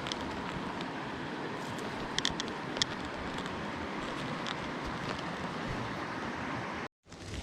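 Steady rush of a mountain stream's flowing water, with a few short clicks and taps over it. The sound breaks off briefly near the end.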